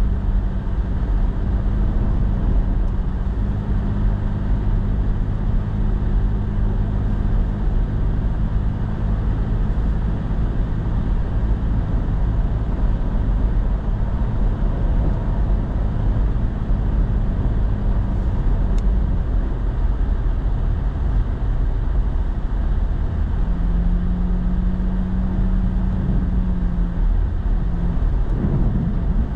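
Truck engine running steadily with tyre and road noise, heard from inside the cab while driving on a packed-snow road. The engine note changes a few times: it fades about two-thirds of the way through, and a different steady tone comes in briefly near the end.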